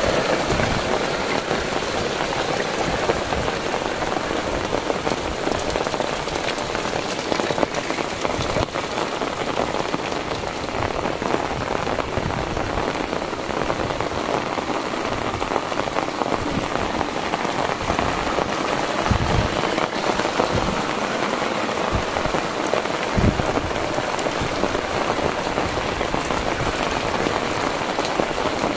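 Heavy rain falling steadily, a dense even hiss, with a few dull low thumps now and then.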